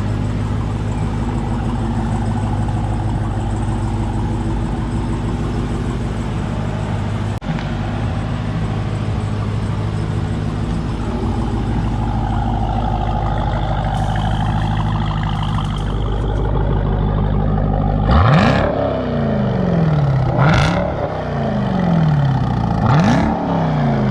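Jeep Trackhawk's supercharged 6.2-litre V8, its mufflers deleted, idling steadily, then revved three times in quick blips, each a sharp climb in pitch that falls back to idle. Super loud.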